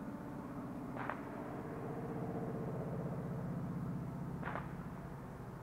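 Two distant firework bangs, about a second in and again about three and a half seconds later, over the hum of a passing vehicle that swells and then fades.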